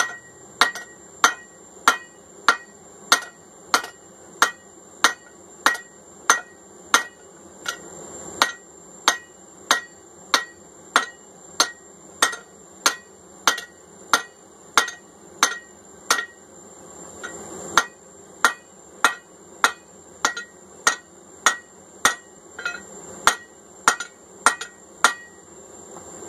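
Hand hammer striking steel at a steady pace, about three blows every two seconds, each blow a sharp ringing clank: a drift being driven into the punched eye hole of hot forged steel on the anvil.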